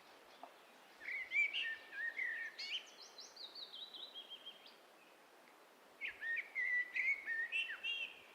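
A small songbird singing two quick, high phrases of varied chirping notes, the first ending in a descending series, with a pause of about a second between them.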